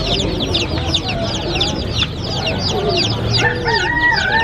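A group of baby chicks peeping continuously, many quick high chirps that each fall in pitch. About three and a half seconds in, a lower, drawn-out wavering call joins them.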